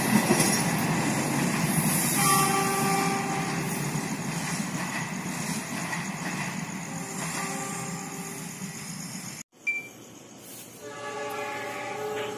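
A passenger train's wheels and carriages rumble past on the track, the noise fading steadily as the train moves away, while a train horn sounds twice in the distance. About nine and a half seconds in the sound breaks off and comes back quieter, with another horn-like tone near the end.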